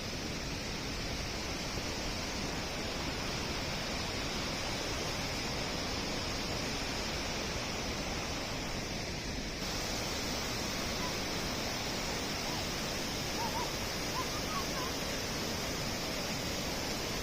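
Kegon Falls, a waterfall, giving a steady rushing noise of falling water. A few faint short chirps sound in the latter part.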